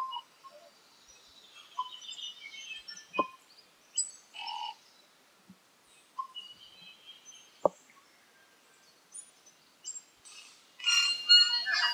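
Tui singing in forest: scattered clear notes and short phrases, a couple of sharp clicks, and a louder, busier run of song near the end.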